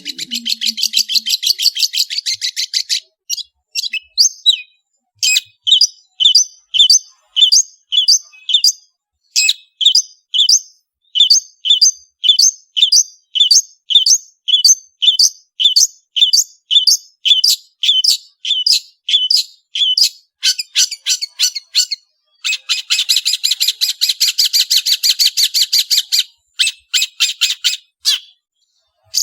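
Long-tailed shrike (cendet) singing loudly: a fast chattering trill, then a long run of short, sharp calls repeated about one and a half to two times a second, and another fast chattering trill about two-thirds through.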